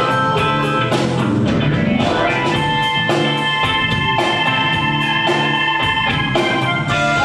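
Live band playing an instrumental passage: drum kit keeping a steady beat with about four hi-hat strokes a second, guitar, and long held chords over it.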